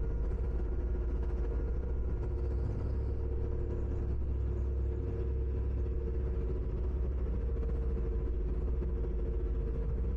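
Ferry engines running, a steady low rumble with a constant droning hum over it.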